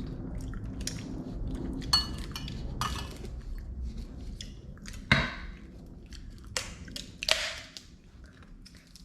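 A spoon clinking and scraping against a bowl while eating, with several separate knocks, a few of them ringing briefly.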